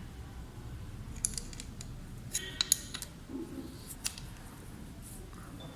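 Metal spanners clicking and clinking against the lock nuts of a motorcycle clutch cable adjuster as they are tightened: a few light clinks, then a quick cluster of sharper clicks about halfway through, and one more later.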